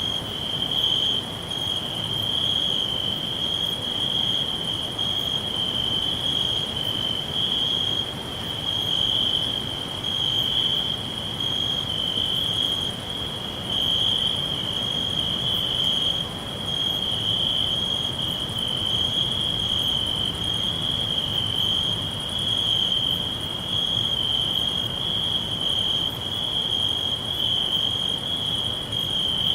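Crickets chirring in a steady, continuous high-pitched trill, with a fainter, higher pulse repeating about once a second.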